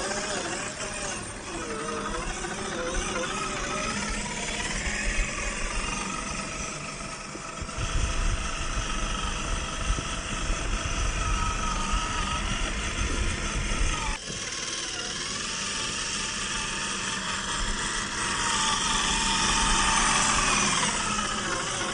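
Electric motor and gear whine of an Axial SCX10 III RC crawler's 45T 540 brushed motor, rising and falling in pitch with the throttle. The sound changes abruptly about eight seconds in and again about fourteen seconds in, with a heavier low rumble between those points.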